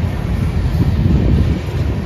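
Freight train passing close by: a loud, steady low rumble, with wind buffeting the microphone.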